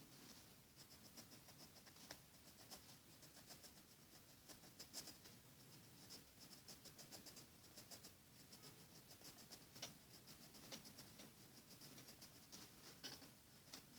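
HB graphite pencil sketching on paper: faint, irregular scratchy strokes, many short ones in quick succession.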